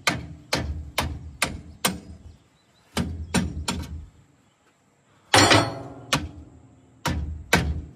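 Hammer blows on the dozer's metal exhaust pipe, sharp strikes about two a second, then a pause. About five seconds in comes one louder clattering crash, followed by another run of blows.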